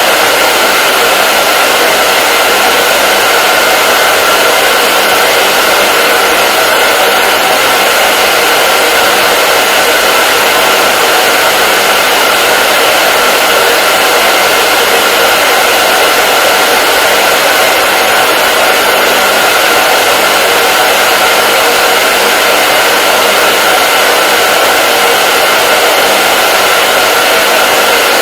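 Hair dryer blowing continuously, a loud, steady rushing with a faint motor hum and no change in speed.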